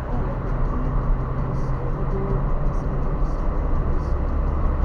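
Car driving along with a steady rumble of engine and road noise.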